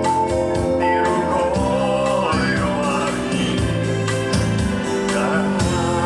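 Live band music with keyboard and a steady beat; a voice starts singing over it about a second in.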